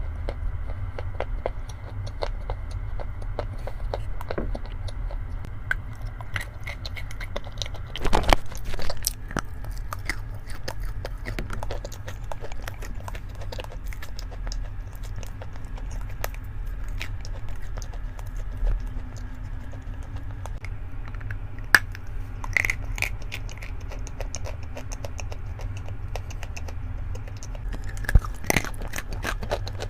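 Close-miked chewing and biting of chalk and clay: many small crisp clicks and crackles, with louder crunching bites about eight seconds in, around twenty-two seconds, and near the end.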